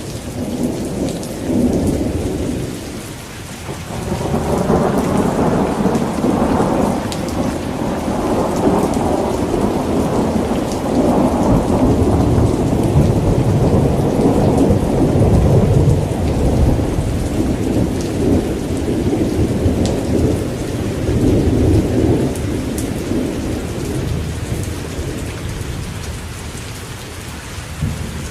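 Steady rain with rolling thunder: a short rumble about two seconds in, then a long rumble that builds from about four seconds in, swells, and slowly dies away over some twenty seconds.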